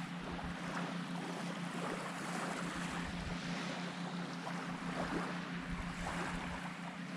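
Wind buffeting the microphone and a hiss of surf on an open beach, over a steady low hum that does not change.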